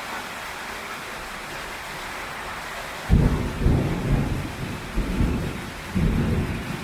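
Heavy tropical rain pouring steadily on a tin roof, then a sudden close thunderclap about halfway through that rolls on as deep rumbling in several surges.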